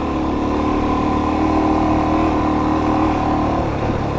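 Kawasaki KLX400R dual-sport dirt bike's single-cylinder four-stroke engine running steadily under way. The engine note breaks up and falls away near the end as the throttle eases off.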